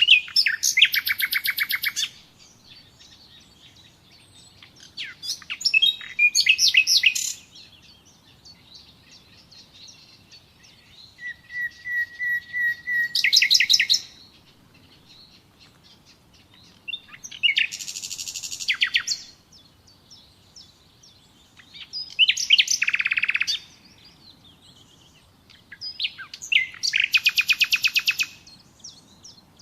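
A songbird singing in repeated phrases, about six in all, each a fast trill of rapid notes lasting around two seconds, with short pauses between them. One phrase, near the middle, opens with a run of even notes on one pitch before the trill.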